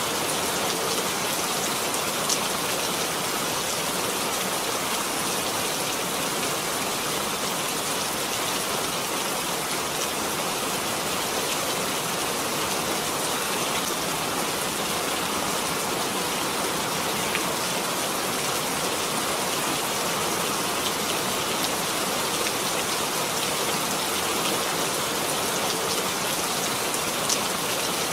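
Steady rain falling on surfaces, a continuous even hiss with a few sharper drop ticks now and then.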